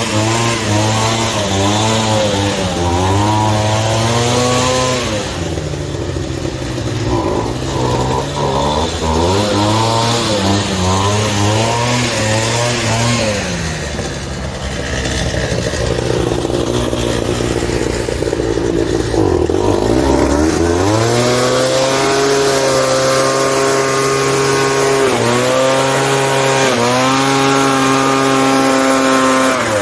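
Small gasoline engine running, its speed rising and falling repeatedly, then dipping low about two-thirds of the way through before climbing back and holding a steadier, higher speed.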